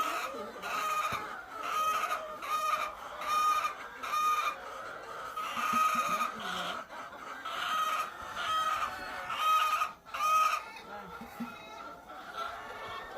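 Chickens calling in a chicken house: a dozen or so short, loud, pitched clucks in a repeating run less than a second apart, with other birds softer behind them. The calls stop about ten seconds in, leaving quieter background clucking.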